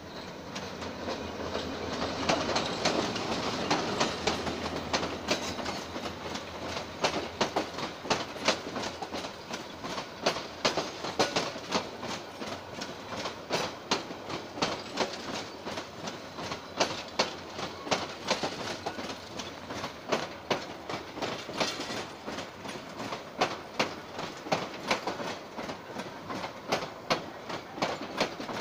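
Diesel-hauled passenger train passing through slowly. The locomotive's noise swells over the first few seconds, then the coaches' wheels clack over the rail joints in a steady, repeating rhythm.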